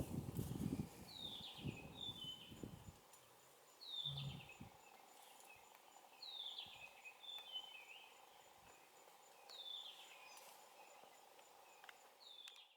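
A bird calling over and over, each call a short run of falling notes, repeated every two to three seconds, with a low rumble during the first few seconds.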